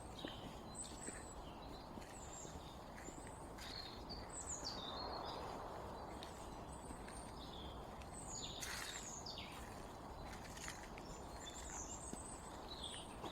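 Small songbirds chirping and calling again and again: short high chirps and quick downward-sweeping notes, over a steady low background hiss.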